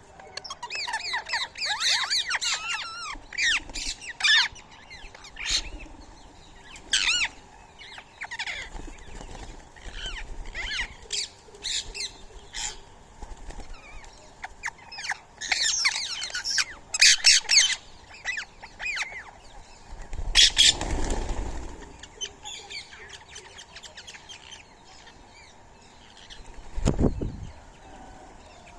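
Birds calling in quick, sharp squawks and chirps, scattered and overlapping, with a burst of noisy flutter about two-thirds of the way in and a single low thump near the end.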